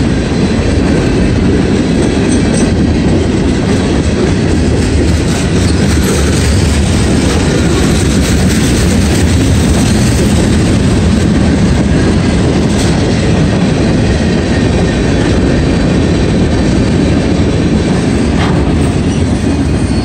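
Loud, steady rumble and clatter of a passing mixed freight train: the wheels of tank cars, covered hoppers and boxcars running over the rails.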